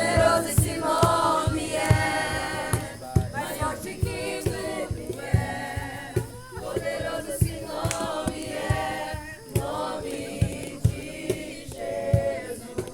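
A group of young people singing a worship song together while clapping their hands in time.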